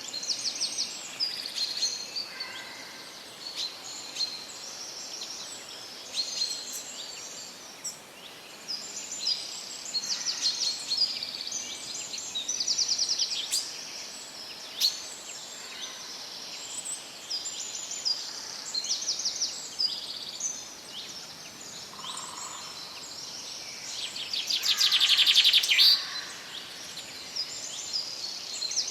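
Several songbirds singing in a forest chorus: overlapping high-pitched calls and rapid trills that keep on throughout, with one louder, longer trill near the end.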